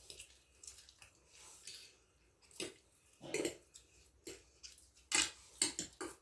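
People eating chowmein quickly: irregular slurping, chewing and mouth sounds, with the loudest ones about two and a half, three and a half and five seconds in.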